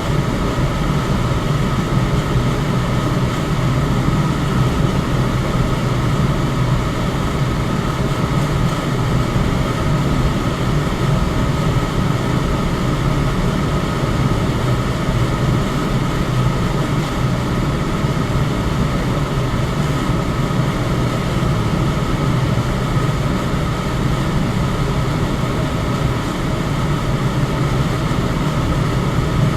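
Electric fan running steadily: an even rush of air over a low hum, with a faint steady whine above it.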